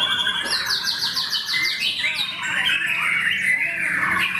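Several white-rumped shamas (murai batu) singing over one another: overlapping whistles and chatter, with a fast trill of about eight repeated notes a second starting about half a second in and lasting over a second.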